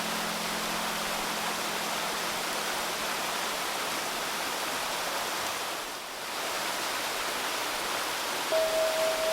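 Steady babbling of a shallow river. A low note fades out over the first few seconds, and a clear, pure sustained tone comes in near the end.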